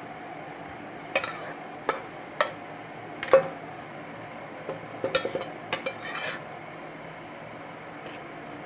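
A metal spoon knocking and scraping against metal cookware as chicken is spooned in as a layer over the rice: a string of separate clinks, with a busier cluster of clinks and scrapes around five to six seconds in.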